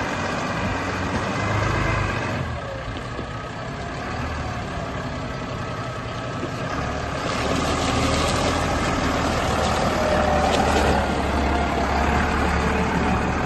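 Volvo Trac tractor's diesel engine running, growing louder about seven seconds in.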